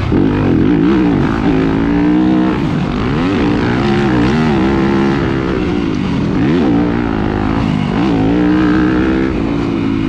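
Motocross dirt bike engine revving up and down over and over, its pitch climbing and dropping every second or so as the throttle is opened and shut through the track.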